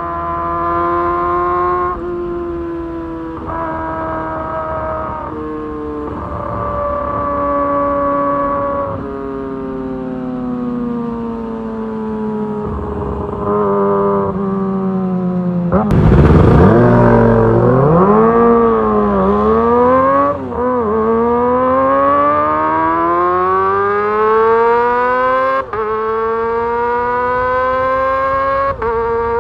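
Kawasaki ZX-25R's 250 cc inline-four engine under way, holding fairly steady revs that step down and up several times in the first half. About halfway a sudden loud burst comes, the revs dip, then climb in one long rising run, broken near the end by brief drops in level as the quickshifter changes up.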